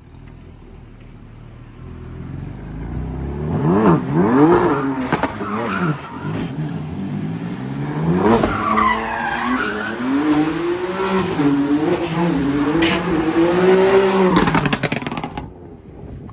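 BMW F80 M3's twin-turbo inline-six revving hard up and down on a drift run, with tyres squealing. The engine climbs sharply about three seconds in, swings through the revs, holds high with a wavering pitch, and cuts off shortly before the end.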